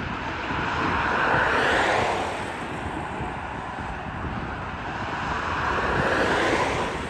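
Two vehicles passing one after the other, a rushing noise that swells and fades twice, about four seconds apart.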